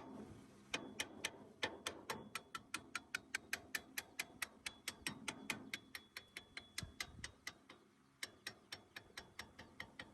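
Light, even clicking of a hand ratchet mechanism, about five clicks a second, in three runs with short pauses between them.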